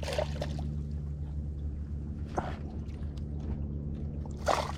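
Boat engine idling with a steady low hum, with a few light clicks and knocks on top.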